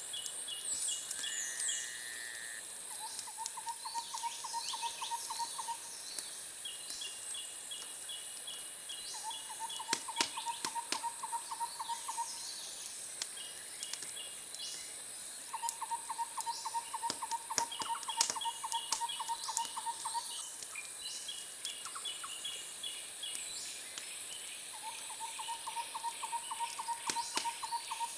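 Wood fire crackling with scattered sharp pops, under a steady high hiss. A repeated pulsed trill comes four times, each run lasting a few seconds, with rows of short high chirps between, like animal calls from a nature ambience.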